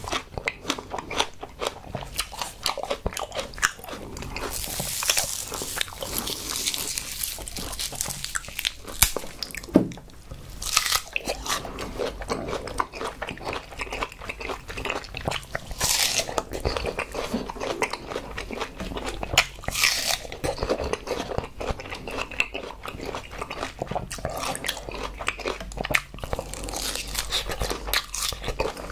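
Close-miked crunching bites and chewing of a raw green succulent plant stem, many irregular sharp crunches with a few brief hissy rustles in between.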